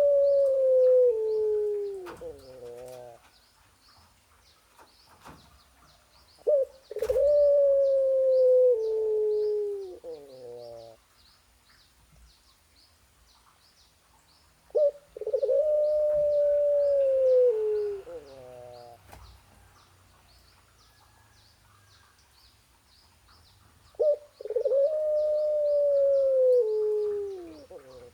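A female animal calling for a mate with four long, loud, drawn-out calls, about eight or nine seconds apart. Each call holds near one pitch, then slides down and breaks into a quick run of short falling notes.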